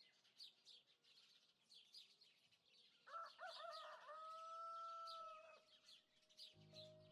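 Small birds chirping over and over, with one long crowing call about three seconds in that wavers at first and then holds a steady note. Music starts near the end.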